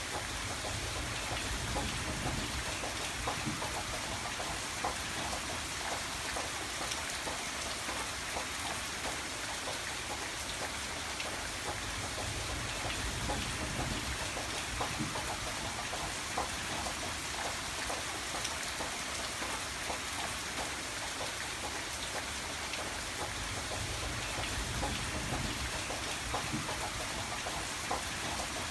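Steady rain falling, with many individual drops heard as small sharp ticks over an even hiss. A low rumble swells and fades three times.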